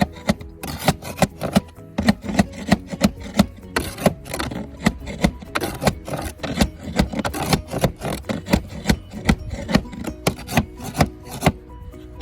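Rapid, even hand-scraping or rasping strokes on roofing material, about three a second, with background music underneath.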